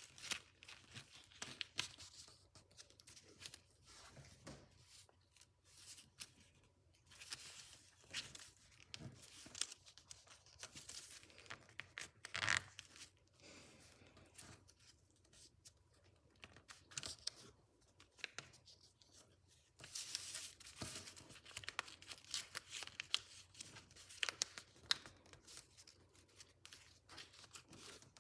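A sheet of paper being folded and creased by hand into an origami model, giving faint, irregular crinkling and rustling with sharper crackles as folds are pressed, the loudest about halfway through.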